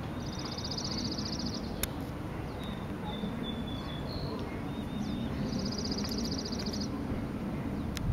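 A small songbird singing two fast, high trills, one near the start and one about five and a half seconds in, with a few faint thin notes between them. A steady low outdoor rumble runs underneath.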